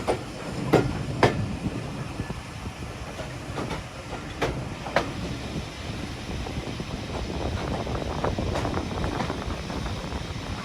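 Heritage train rolling along the track: a steady rumble with pairs of sharp wheel clicks over rail joints, the clickety-clack of the carriages.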